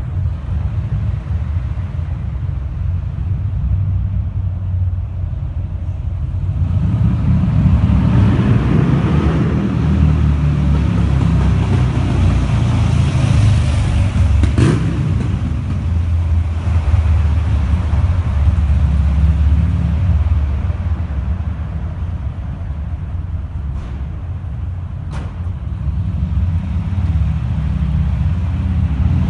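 Buell XB9's air-cooled V-twin engine running with a deep, throbbing exhaust, growing louder about a quarter of the way in, easing off later and swelling again near the end as the bike rides by. A sharp click sounds about halfway through.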